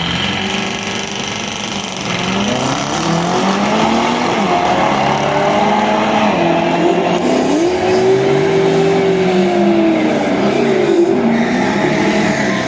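Drag racing cars at full throttle on a run down the strip. The engine pitch climbs, drops back and climbs again several times, with one long rise and fall in the second half.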